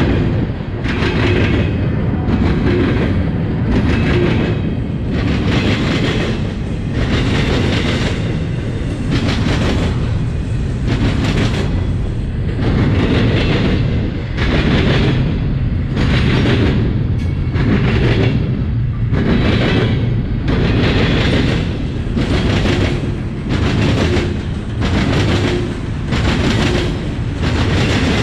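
Freight train cars rolling past at close range, their wheels clattering over the diamond crossing with a rhythmic clack that surges roughly once a second over a steady rumble.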